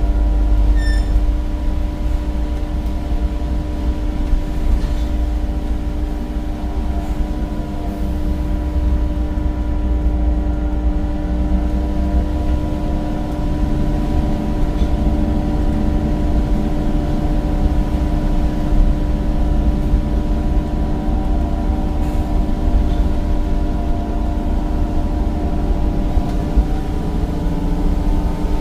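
Temsa Avenue bus's replacement Cummins diesel engine and ZF gearbox under way, heard on board: a steady low rumble with steady whining tones on top, climbing slightly in pitch near the end.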